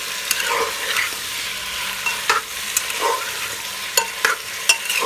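Sliced potatoes frying in oil in a metal pressure cooker, sizzling steadily, while a spatula stirs them with repeated irregular scrapes and knocks against the pot.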